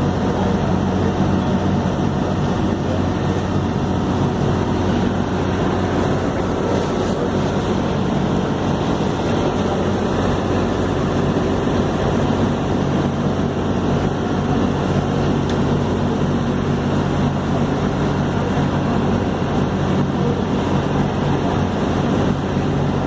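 Ferry boat's engines running with a steady low drone.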